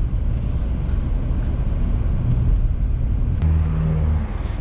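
Car engine and road rumble heard from inside the cabin while driving. About three and a half seconds in, a steady engine hum stands out for under a second, just after a single click.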